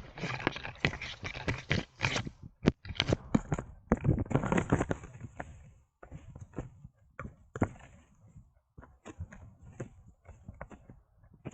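Scratching, scraping and knocking picked up by a camera strapped to a running dog: its footfalls, and its fur and harness rubbing against the camera. Dense for the first half, then sparser after about six seconds.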